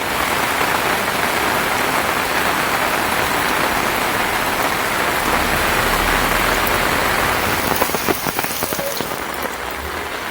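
Heavy rain falling steadily on hard surfaces, an even hiss, with a low rumble about six seconds in.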